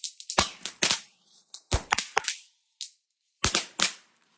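Fireworks going off: a string of sharp cracks and bangs at irregular intervals, about a dozen in all.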